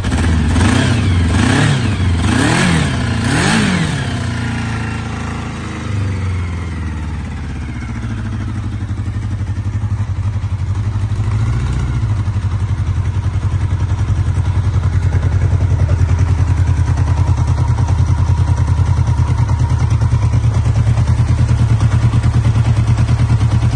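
1981 Kawasaki 650 CSR's air-cooled four-cylinder engine running: revved four times in quick succession, then settling over a few seconds to a steady idle.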